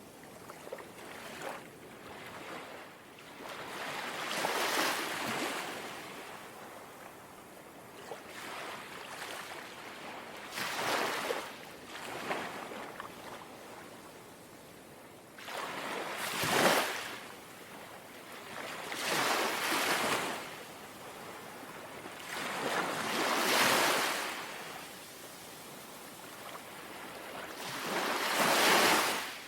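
Small, gentle sea waves lapping and washing in, a soft swell of surf every few seconds, about seven in all.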